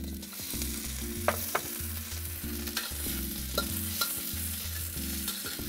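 Edamame pods sizzling and spitting in hot oil in a wok, the sizzle starting as they are tipped in. A metal wok spatula stirs them, with a few sharp clicks against the wok.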